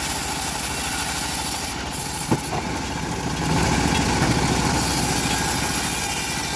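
Indonesian-built bandsaw mill running steadily while cutting an old teak log, with a steady engine-like pulse. There is one sharp click about two seconds in.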